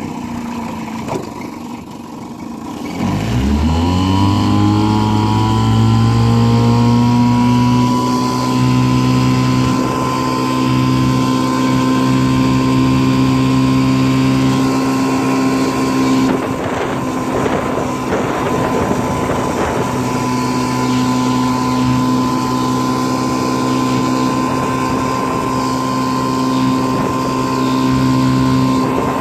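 1955 Johnson CD-12 5.5 hp two-stroke outboard motor dropping to a low speed, then throttled up sharply about three seconds in and running steadily at speed. A stretch of rushing noise comes over it about halfway through.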